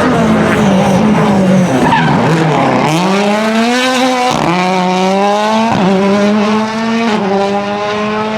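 Ford Fiesta WRC Plus rally car's turbocharged 1.6-litre four-cylinder engine: the revs fall away for the first few seconds, then it accelerates hard, the pitch climbing and dropping at upshifts about four and a half and six seconds in, then holding steady.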